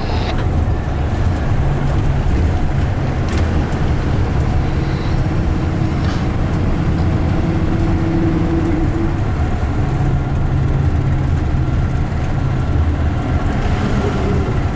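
Steady engine rumble and road noise of a moving bus, heard from inside.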